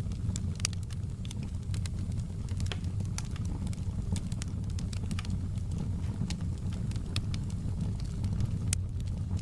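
Wood fire in a fireplace crackling, with irregular sharp pops and snaps over a low steady rumble of the flames; one pop stands out near the end.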